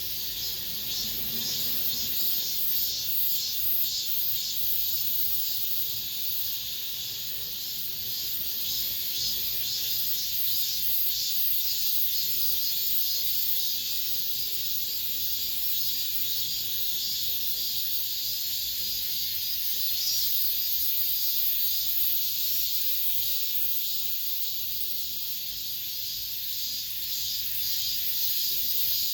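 Cicadas singing in a steady, high-pitched, buzzing chorus that pulses quickly through the first half.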